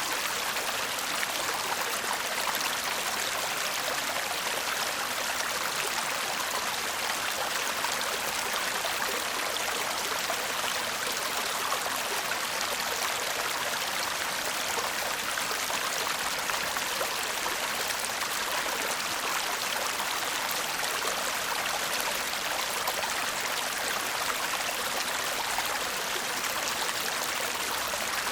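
Shallow stream babbling steadily: a constant rush of water, with fine splashing and trickling over a soft, bright hiss.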